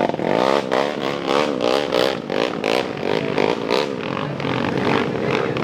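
Motocross dirt-bike engine revving hard, its pitch rising and falling quickly about three times a second as the throttle is worked, with short sharp clatters mixed in.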